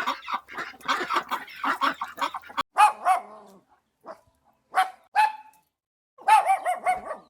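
A dog barking. Dense, overlapping barks in the first two and a half seconds, then a few single barks, and a quick run of about five near the end.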